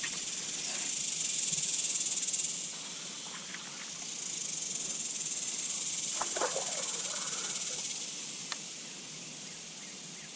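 Insects droning in a high, steady buzz that swells twice. A few faint short calls come about two-thirds of the way through.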